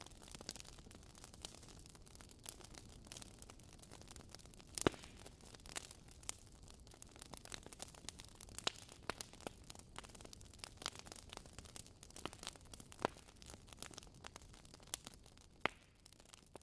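Wood fire crackling in a fireplace: irregular sharp pops and snaps, a few louder ones, over a soft steady hiss.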